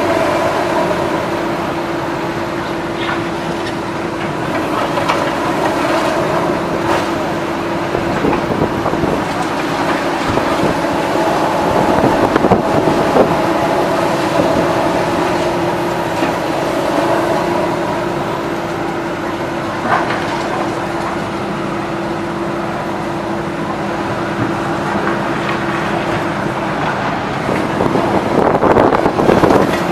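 Heavy demolition machinery running steadily, its engine and hydraulics giving a held whine, with scattered knocks and crunches of debris. The steady tone stops near the end, where a louder spell of clatter follows.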